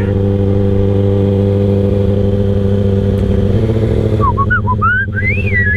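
2013 Kawasaki ZX-6R 636's inline-four engine running steadily while the bike is ridden at an even pace, its pitch dropping slightly about three and a half seconds in. Short high chirping whistles come in near the end.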